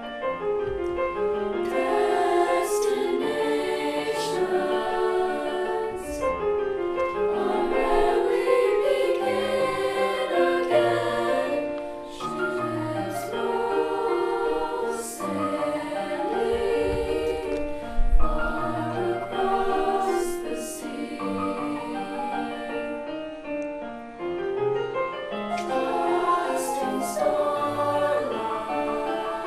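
School choir singing a holiday piece in phrases, with brief breaths between phrases about twelve and twenty-four seconds in.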